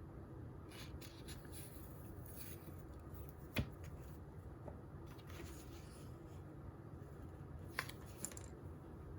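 Faint desk sounds of someone studying: light scratchy strokes of writing or paper handling, a sharp click about a third of the way in, and two smaller clicks near the end, over a steady low room hum.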